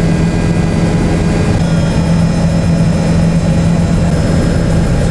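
Tour helicopter running steadily, a loud, even low drone of engine and rotor.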